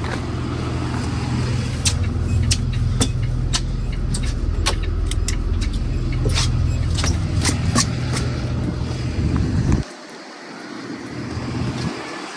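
School bus engine idling steadily, with scattered sharp ticks over it. The engine sound drops out abruptly about ten seconds in and comes back just before the end.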